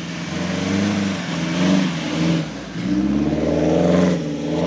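Off-road jeep engine revving hard in repeated surges, its pitch rising and falling several times, with a steady hiss of tyres and mud underneath, as the jeep struggles to push through soft mud without bogging down.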